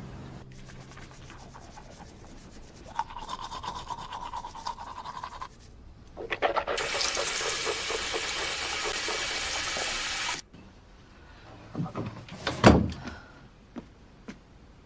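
A quieter rapid rubbing or scrubbing sound, then water running in a steady loud rush for about four seconds that cuts off abruptly, followed by a few sharp knocks.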